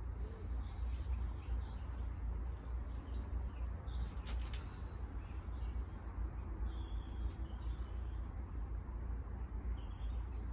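Small birds chirping intermittently over a steady low rumble, with a few light clicks.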